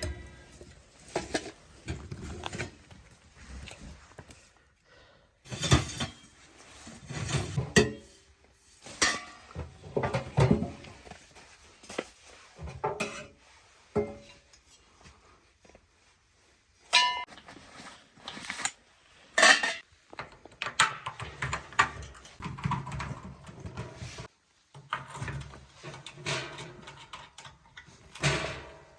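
Irregular knocking, clinking and rustling of equipment being handled, in scattered short clatters with brief pauses.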